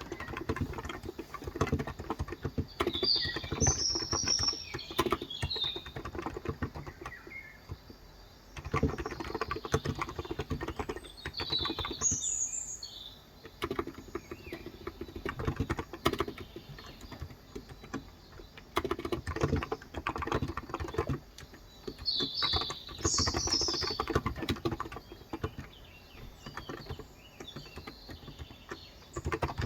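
Typing on a Cox Endeavor electrostatic capacitive keyboard with 35 g switches: runs of quick keystrokes broken by short pauses. Birds chirp now and then in the background.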